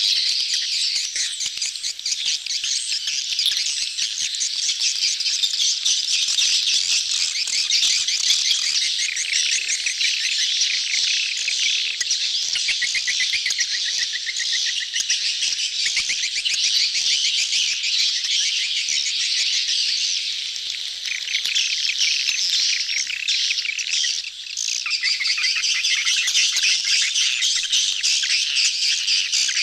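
Crowded colony of edible-nest swiftlets chattering and twittering nonstop in dense, high-pitched, overlapping chirps: the courtship calls of a colony in breeding mood, used as a lure call to draw swiftlets into a nesting house.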